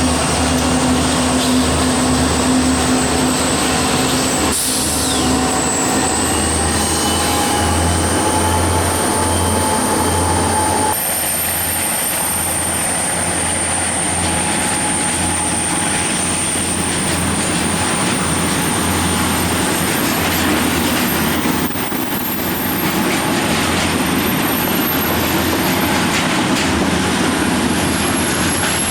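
CN freight train rolling past, its cars rumbling steadily over the rails with a thin, high-pitched wheel squeal above the noise.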